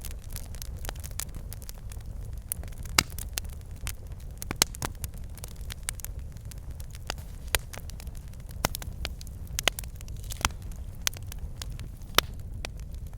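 Wood fire burning in a fireplace: a steady low rumble of flames with irregular crackles and pops from the logs, a few of them sharper and louder.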